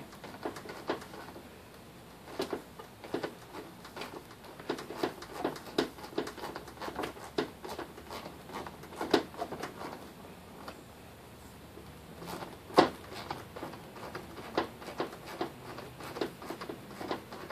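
Light, irregular clicks and taps of a small Torx driver turning a headlamp's top adjuster screw, with the plastic headlamp housing shifting under hand pressure. There is one louder click about 13 seconds in.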